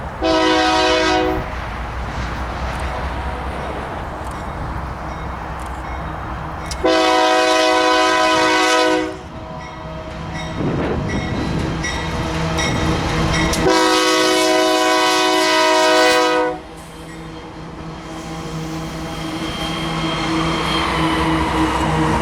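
Freight locomotive's multi-chime air horn sounding three blasts, a short one then two long ones, over the steady rumble of the passing train.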